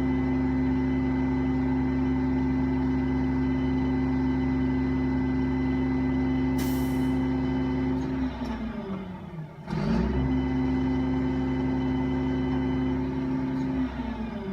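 Garbage truck engine running steadily at raised speed, with a short hiss of released air about six and a half seconds in. Its pitch drops and it goes quieter around eight and a half seconds, then comes back up at ten seconds and drops again near the end.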